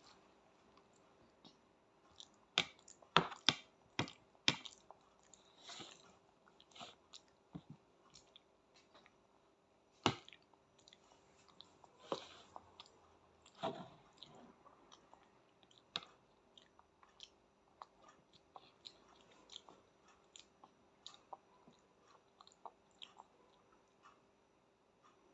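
Faint chewing while pasta is being eaten, broken by scattered short clicks and taps, with louder clusters about three to four seconds in and again around ten and fourteen seconds.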